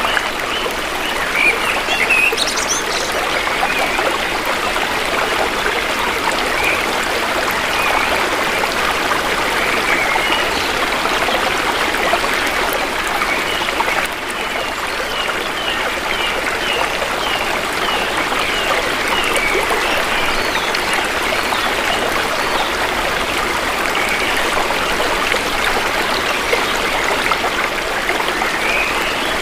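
Shallow river water flowing steadily. Faint short bird chirps come now and then, with a quick run of them about halfway through.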